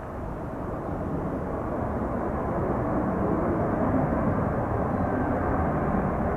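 Airbus A320-200 jet engines rumbling as the airliner lands, the noise growing steadily louder.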